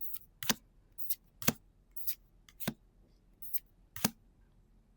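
Trading cards being handled one at a time, each one a crisp, short snap, about two a second.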